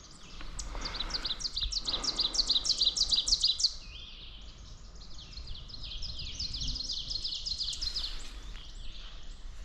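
Ovenbird singing: a quick run of repeated high notes that grows steadily louder for about three seconds and stops abruptly, then a fainter song of similar notes from about five seconds in.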